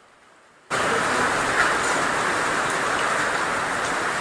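Heavy rain falling hard, a dense steady hiss that cuts in sharply under a second in.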